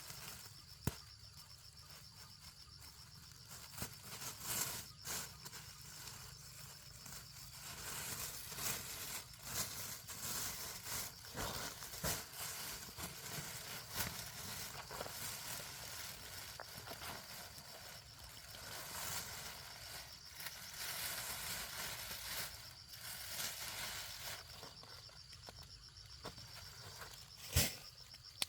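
A steady, high-pitched insect chirring, with scattered knocks, clicks and rustling.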